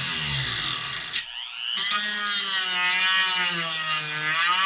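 Small high-speed rotary tool cutting, its whine sagging and rising in pitch as it bites. About a second in it briefly lets off and then spins back up.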